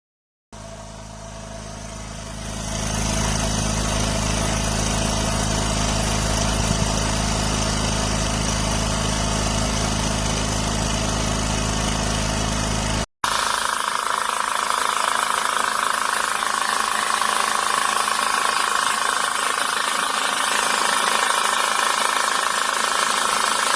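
California Air Tools 10020C oil-free air compressor motor starting up and coming to speed, then running with a steady hum. After a sudden break about 13 seconds in, a harsher, hissier steady running sound follows.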